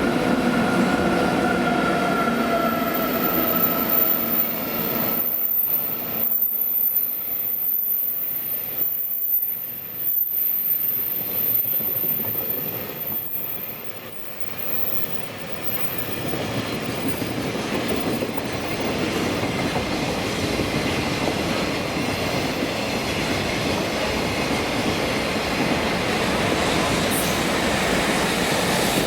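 Freight trains hauled by EF64 and EF65 electric locomotives rolling past each other, with a steady rumble and clickety-clack of wagons on the rails. A few faint, slightly falling whining tones sound in the first few seconds. The sound thins out for a while around the middle, then builds back to a dense, steady roll.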